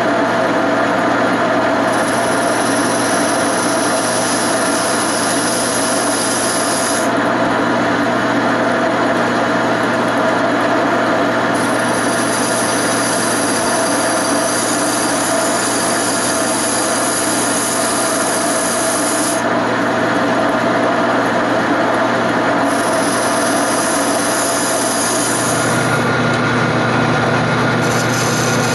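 Wood lathe running steadily while a turning tool cuts into a spinning wooden chair leg. The high cutting hiss comes and goes in three passes.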